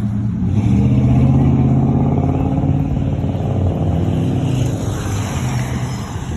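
An engine running with a steady low note that eases off slightly in the second half.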